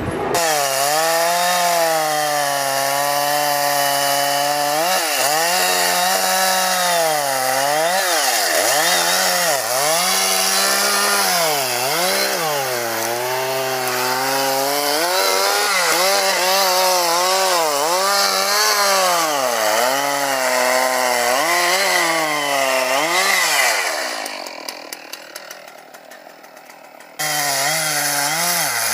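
Two-stroke chainsaw cutting into a tree, its engine pitch sagging and picking up again over and over as the chain bites the wood. Near the end it drops away for a few seconds, then comes back suddenly at full revs.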